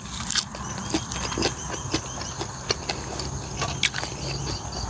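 A person eating close to the microphone: chewing with wet mouth clicks and smacks, many short sharp clicks in quick, uneven succession, over a steady low hum.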